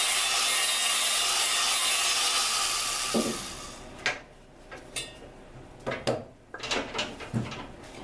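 Drill spinning a valve against its seat with lapping compound in a Dodge 4.7 V8 cylinder head, a steady gritty grinding that stops about halfway through. A few light knocks and clicks follow.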